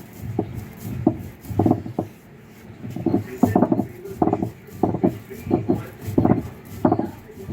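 Cumin and fennel being ground by hand on an ammikkal, a flat stone with a stone roller. The roller scrapes back and forth over the slab in regular strokes, about two a second.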